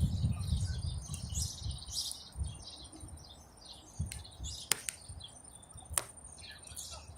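Small birds chirping and twittering over and over, above a low rumble, with two sharp clicks about five and six seconds in.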